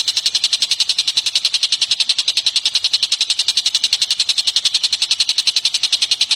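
A songbird's rapid, unbroken high-pitched trill, pulsing evenly at about twelve notes a second, as used in a masteran recording for training cage birds.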